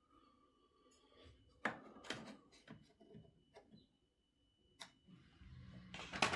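Small chainsaw parts being handled on a workbench: a few light clicks and knocks with faint rustling, the sharpest about a second and a half in and just before the end.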